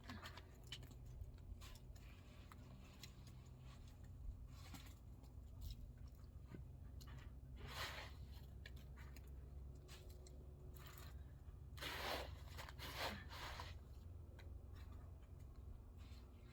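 Faint scraping and rubbing over a low steady hum, with louder scrapes about 8 seconds in and again around 12 to 13 seconds in.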